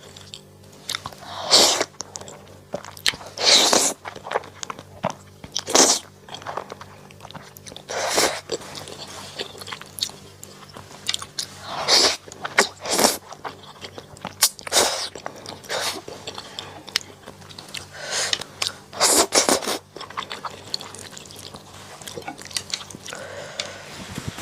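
Close-miked eating sounds: bites and chewing in short bursts every second or two, some longer and wetter.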